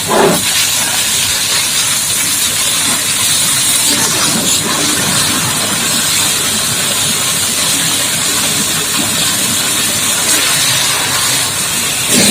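Steady hiss of a high-pressure water jet from a booster-pump hose spraying down a dump truck.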